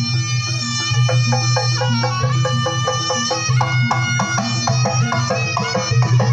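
Live jaranan ensemble music: a reedy wind-instrument melody over rapid drum and struck-percussion beats with a steady low drone.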